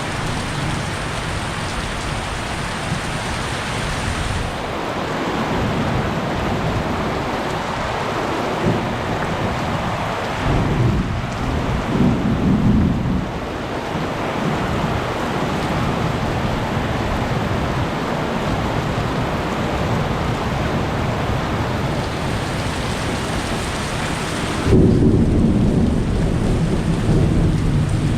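Heavy rain falling steadily through a thunderstorm, with a roll of thunder around the middle and a louder thunderclap rumbling in suddenly near the end.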